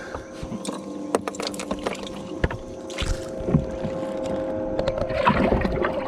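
Steady electric hum of a bass boat's trolling motor, with scattered knocks and clicks on the boat and a louder rushing noise building near the end.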